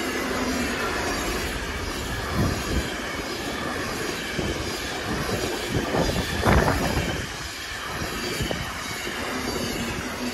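Freight train of pocket wagons loaded with truck trailers rushing past close by at speed: a steady rush of wheels on rail and moving air, with a few heavier thumps from passing wheelsets, notably about two and a half and six and a half seconds in.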